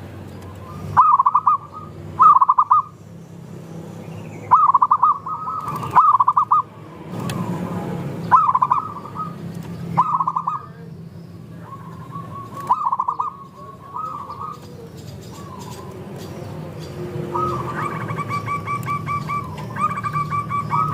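Zebra doves (perkutut) cooing, several birds calling in turn. Each call is a short burst of quick stuttering coos, repeated every second or two, and near the end it becomes a longer run of rapid, even notes.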